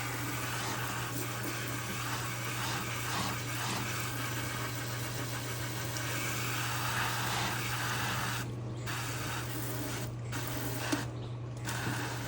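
Kitchen tap running steadily into a sink, with a constant low hum underneath.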